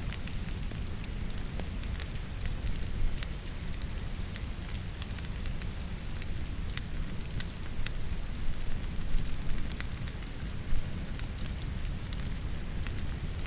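Wood logs burning in a fireplace, crackling and popping at irregular moments, with one louder pop near the end, over the steady hiss of falling rain.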